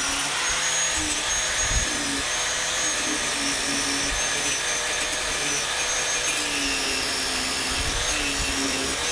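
A small high-speed electric motor running steadily, its whine repeatedly dipping and recovering in pitch as it is loaded and eased off.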